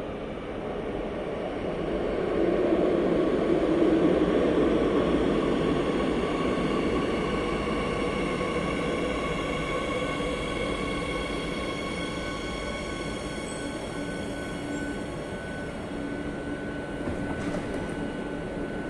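Madrid Metro Line 8 train running. Its rumble swells a couple of seconds in and then slowly eases, with a steady whine of several held tones over it.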